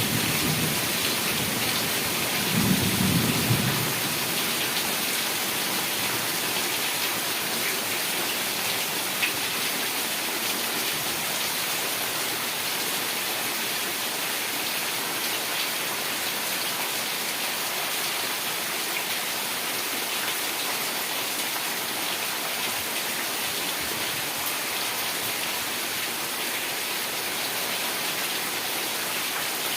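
Heavy rain falling steadily, with a brief low rumble about three seconds in.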